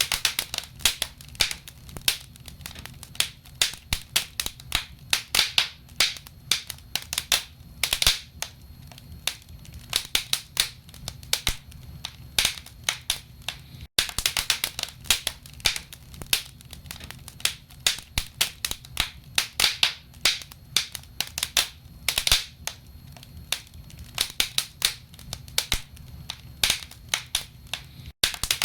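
Wood fire burning in a fireplace: logs crackling with irregular sharp pops over a low steady rumble of the flames. The sound cuts out for an instant about halfway through.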